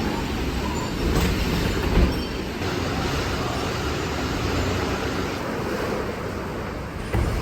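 Heavy storm rain falling steadily, with wind, as an even roar. There are a couple of short thumps about one and two seconds in and another near the end.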